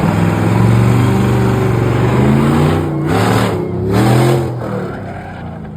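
Car engine held at high revs, its pitch wavering up and down in the middle, with two short bursts of rushing noise about three and four seconds in.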